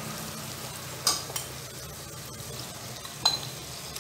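Onion-tomato masala frying in oil in a pot, a steady sizzle, with a metal slotted spatula clinking against the pot a few times as it is stirred and the marinated prawns go in.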